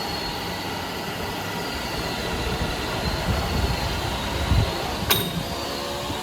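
Machinery running steadily with a low rumble, and one sharp click about five seconds in.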